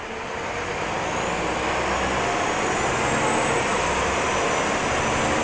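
Scania L94-UB city bus engine running under power, growing louder over the first two seconds and then holding steady, with a thin high whine above the engine sound.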